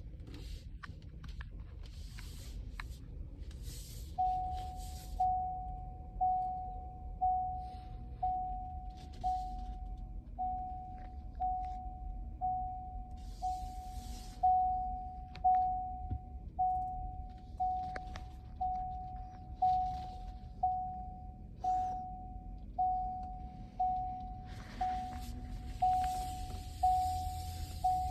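Truck cabin warning chime: a single clear tone that sounds and dies away about once a second, starting a few seconds in, over a low steady rumble with scattered clicks and rustles.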